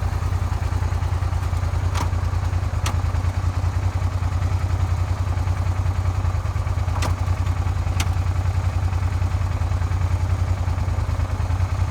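Suzuki SV400's V-twin engine running at a steady, even beat, with no rise or fall in revs, and a few sharp clicks. The engine runs on a crankshaft hand-polished in a garage with emery and GOI paste.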